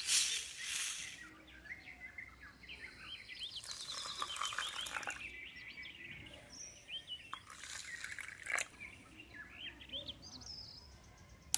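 Small birds chirping and calling in quick, repeated short notes, with a few brief bursts of rustling hiss.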